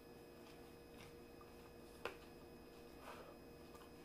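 Near silence: faint chewing of a soft-shell taco with the mouth closed, with one short sharp click about two seconds in.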